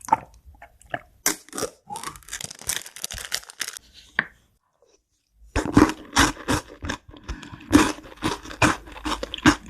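Close-miked eating: crunchy food being bitten and chewed in a quick series of crackling crunches. About a second of near silence falls just before the middle, then a denser, louder run of crunching follows.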